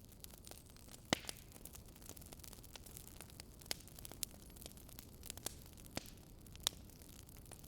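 Campfire wood crackling: scattered sharp pops at irregular intervals, the loudest about a second in and near the end, over a low steady hum and hiss.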